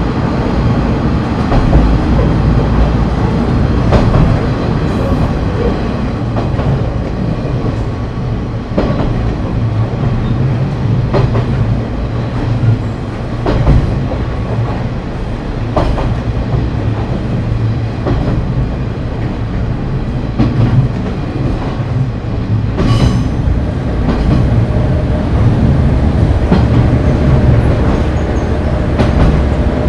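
KiHa 30 diesel railcar running along the line, heard from on board: a steady diesel engine and running drone, with wheels clicking over rail joints every few seconds. The sharpest, most metallic click comes about two-thirds of the way through.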